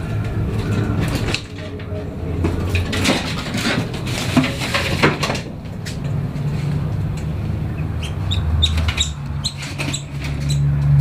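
Rustling and knocking scuffle as a cat catches a bird, then the caught bird giving short high chirps of distress, repeated from about eight seconds in, over a steady low hum.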